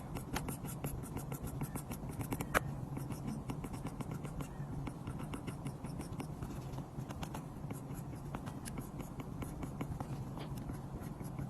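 Apple Pencil tip tapping and sliding on an iPad's glass screen in quick drawing strokes, making many small clicks, with one sharper tap about two and a half seconds in. A steady low hum runs underneath.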